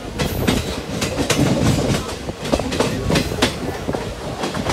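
Indian Railways express passenger coach running along the line, its wheels clattering on the rails in quick irregular clicks over a steady rushing noise. It is heard from an open coach door.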